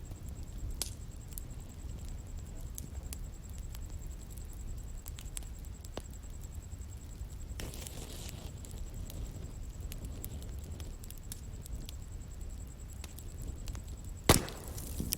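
Outdoor bonfire burning: a steady low rumble with scattered wood crackles, a short hiss a little before halfway, and one loud sharp pop near the end.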